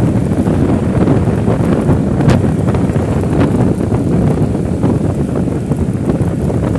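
Wind buffeting the microphone: a loud, steady low rumble with short sharp gusts now and then.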